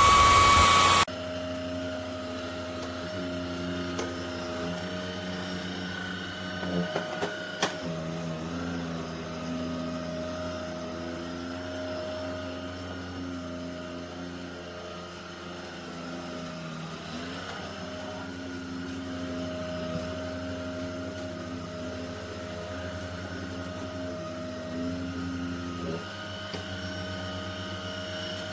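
ElecKeys K10 cordless stick vacuum cleaner running. A loud, high whine drops sharply about a second in, and the motor then runs on more quietly with a steady hum whose pitch shifts a little. There are a few clicks partway through.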